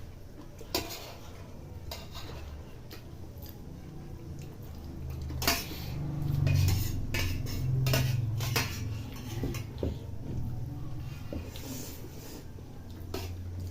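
Cutlery clinking and scraping against dishes as people eat kheer, in scattered sharp clicks, with a louder low muffled rumble in the middle.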